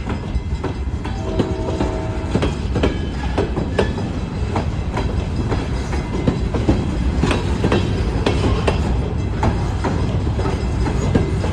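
Freight train of loaded grain hopper cars rolling past at low speed: a steady low rumble with irregular clanks and knocks from the wheels and couplers.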